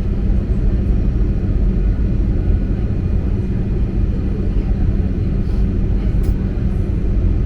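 Passenger plane cabin noise during descent: the steady, loud rumble of the engines and airflow, heaviest in the low end, with a faint steady whine above it.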